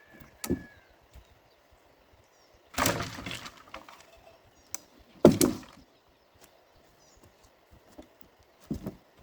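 A few separate heavy knocks and thuds a couple of seconds apart, one of them a longer clatter about three seconds in and the loudest a little after five seconds.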